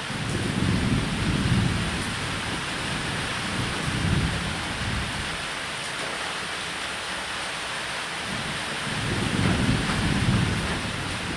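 Thunderstorm: steady rain hiss with low rolls of thunder that swell and fade three times, near the start, around four seconds in, and from about nine seconds.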